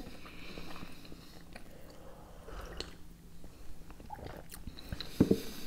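Close mouth sounds of people chewing soft filled doughnut: quiet, irregular smacks and small clicks, with a brief louder sound about five seconds in.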